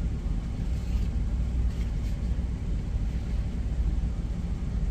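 Steady low rumble of idling truck engines, heard from inside a truck cab.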